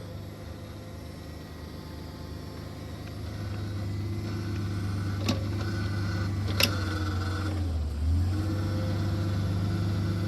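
The engine of the post-hole auger machine running steadily. It gets louder about three and a half seconds in and dips briefly near eight seconds, with two sharp clicks in between.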